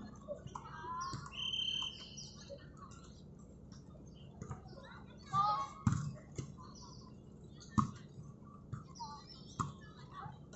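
Athletic shoes squeaking on an indoor court floor in short chirping squeals, with a few sharp knocks of play, the loudest about six, eight and nine and a half seconds in, over faint distant voices.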